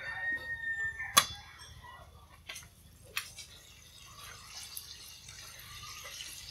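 The end of a rooster's crow in the first second, then a sharp knock and two lighter clicks. From about halfway through comes a faint, steady sizzle of oyster mushrooms frying in oil in a wok.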